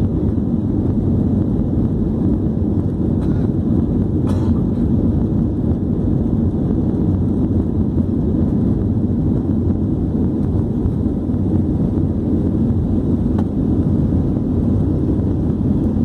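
Steady low rumble of an Airbus A321 airliner's engines and rushing air as it climbs after takeoff, with a faint click about four seconds in and another near the end.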